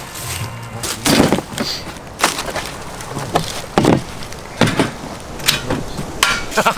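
A series of irregular knocks and cracks, about six, spaced roughly a second apart.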